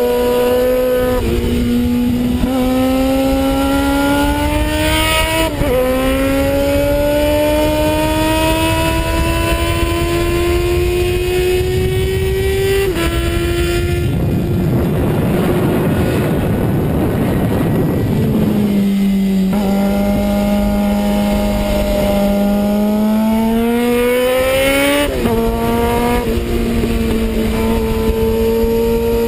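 Suzuki Bandit 650 S's inline-four engine at speed, heard from on the bike. The revs climb in long pulls, and the pitch drops suddenly at each gear change, four times. For about four seconds in the middle, a rush of wind noise mostly covers the engine.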